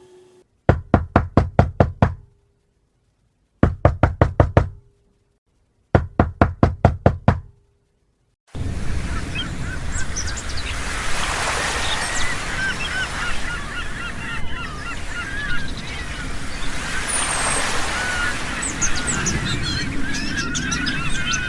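Three bouts of rapid knocking, each about six to eight quick knocks, with short silences between them. About eight seconds in, the knocking gives way to a busy outdoor background full of chattering bird calls.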